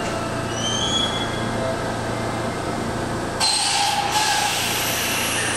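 Electric commuter train at a station platform: steady running noise with a faint rising whine about half a second in, then a sudden loud hiss about three and a half seconds in that carries on to the end.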